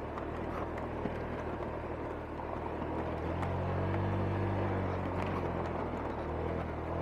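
Motorcycle engine pulling uphill on a steep dirt track, running steadily under load. It grows louder about three seconds in, then eases slightly.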